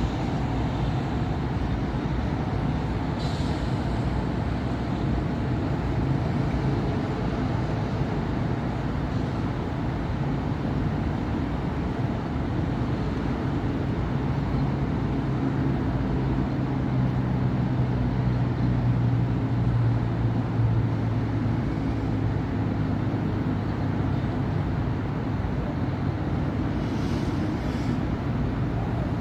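Steady city road traffic of cars and buses. A heavy vehicle's low engine drone grows louder past the middle and then eases off, and two short hisses come about three seconds in and near the end.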